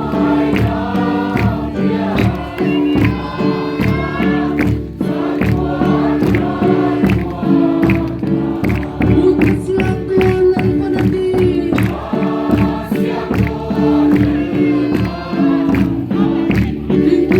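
A group of voices singing a gospel hymn together, over sustained accompanying tones and a steady beat about twice a second.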